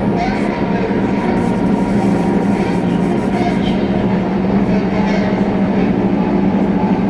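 Drone-noise industrial music: a loud, unchanging low hum with a fast, fine flutter, under a dense wash of noise.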